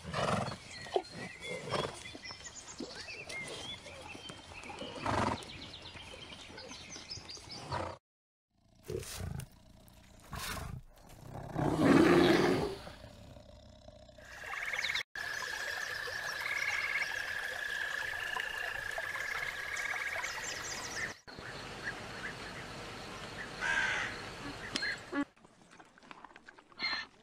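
A run of outdoor animal sounds. The loudest is a rough, low bear growl about twelve seconds in. A steady high whine with chirps follows later.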